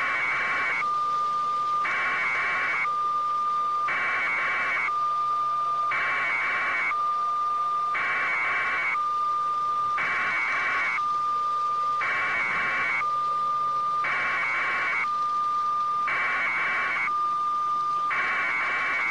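Electronic alarm tone alternating about once a second between a harsh buzzing warble and a steady high beep, repeating evenly.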